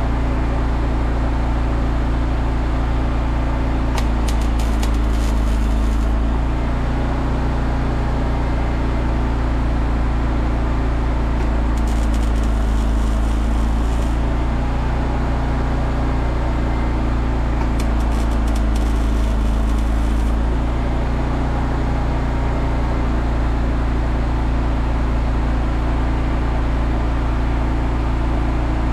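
Steady low machine drone with three short bursts of crackling, each about two seconds long and several seconds apart: short welds or tacks being laid on steel cut nails.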